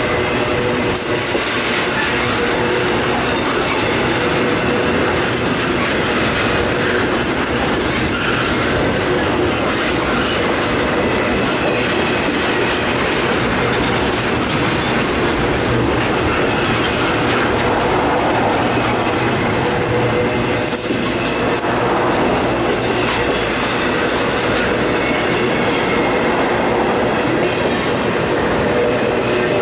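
Norfolk Southern freight train's cars rolling past slowly and steadily, wheels clattering over the rail joints with a faint wheel squeal.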